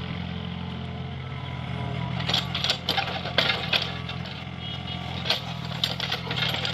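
Mini excavator's diesel engine running steadily under work, with a cluster of sharp clanks and scrapes about two seconds in.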